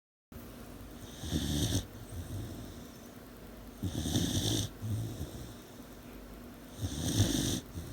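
An 18-week-old Dalmatian puppy snoring in its sleep: three rasping snores about three seconds apart, each followed by a softer, lower breath.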